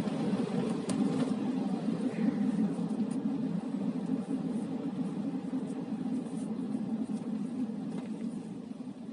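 Steady low rumble of a car's engine and tyres heard from inside the cabin, gradually growing quieter.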